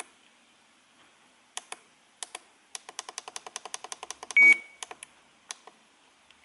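RC transmitter buttons being pressed while changing the receiver mode: scattered clicks, then a quick run of clicks, then one short high beep from the transmitter, the loudest sound, followed by a few more clicks.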